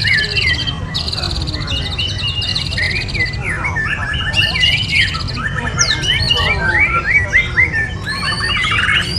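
Many caged songbirds singing and chirping at once, overlapping whistles, quick slurred notes and buzzy rattling trills in a dense chorus, over a steady low rumble.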